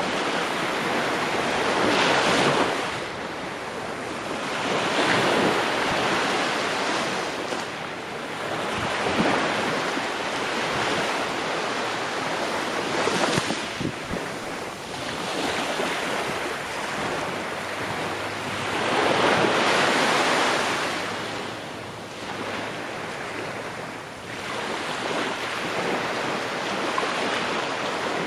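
Ocean waves breaking and washing onto a shore, a steady surf hiss that swells with each wave every few seconds, the biggest swell about two-thirds of the way through.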